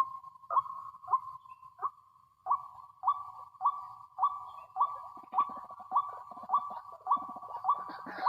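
White-breasted waterhen (ruak-ruak) calling: one short note repeated over and over, about every 0.6 seconds, with a brief pause about two seconds in.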